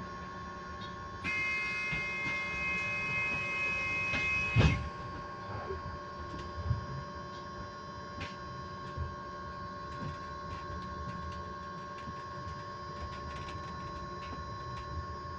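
Electric bus giving off a steady whine on one constant pitch over low road rumble. About a second in, a louder set of higher steady tones with hiss joins in and is cut off by a loud thump about four and a half seconds in, followed by a few lighter knocks.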